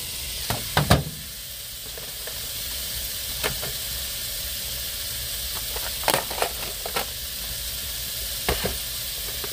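Meat sizzling steadily in a frying pan, with a few sharp clicks and knocks of utensils against the pan now and then.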